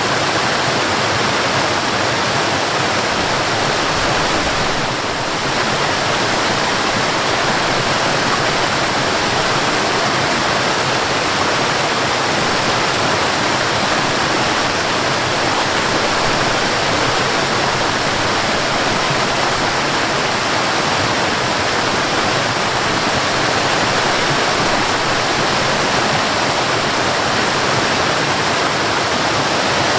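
Waterfall: a steady, dense rush of falling water, dipping slightly in level for a moment about five seconds in.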